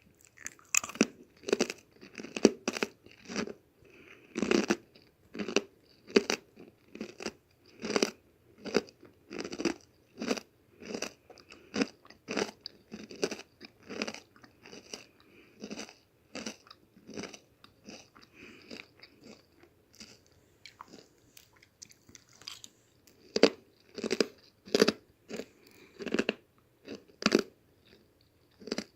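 Crunchy chewing of whole-wheat protein chip cookies, a steady run of sharp crunches about two a second. The crunches grow softer for a few seconds past the middle and come back loud near the end.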